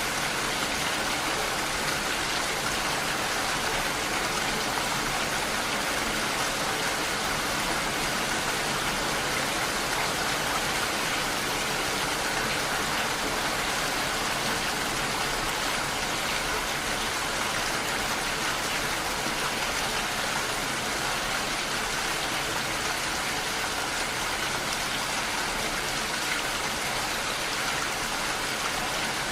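Steady rain falling: an even, continuous hiss with no single drops or changes standing out.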